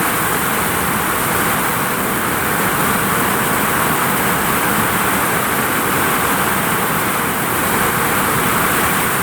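Heavy rain falling steadily on a vinyl roof: a loud, even patter without letup.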